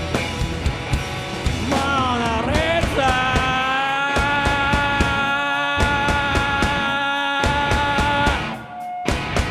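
Live rock band playing loud: a distorted electric guitar holds a long note that bends down about two seconds in and then sustains, over pounding drums and bass. The band drops out briefly near the end before the drums come back in.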